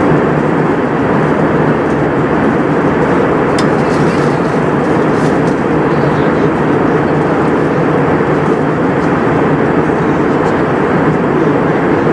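Steady cabin noise inside an Airbus A320 airliner: an even mix of jet engine sound and airflow.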